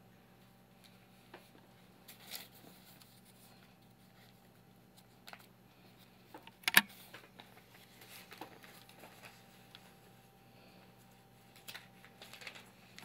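Scattered light taps and clicks from a cockatiel knocking at its bell toy, with one sharp loud clack about seven seconds in and a quick cluster of taps near the end.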